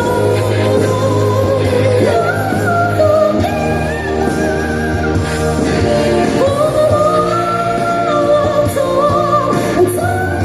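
A singer performing live, holding long wavering notes over amplified backing music with a steady bass line.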